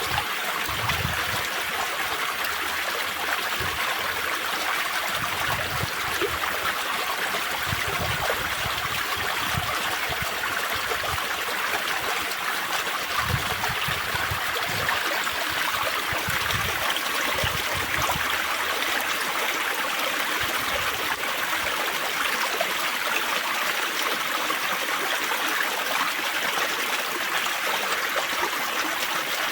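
Spring water trickling and babbling in a small stream, a steady, unbroken splashing. Irregular low rumbles come and go underneath during the first twenty seconds or so.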